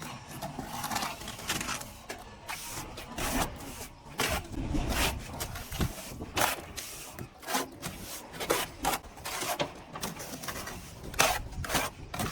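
Plastering trowel scraping over plaster in short, irregular strokes, several a second at times, with a few louder strokes near the end.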